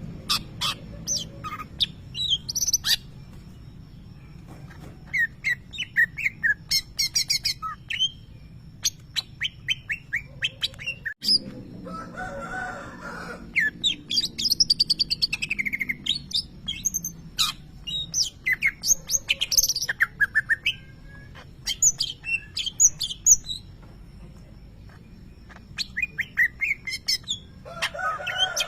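Greater green leafbird (cucak ijo) singing: bursts of rapid, high-pitched chirps and fast trills mixed with sweeping whistled notes, broken by short pauses. Its song is known for mimicking lovebird calls.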